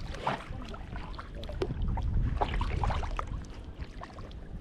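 Water splashing and dripping from a kayak paddle in lake water, over a steady low rumble. Short splashes come irregularly, busiest around the middle.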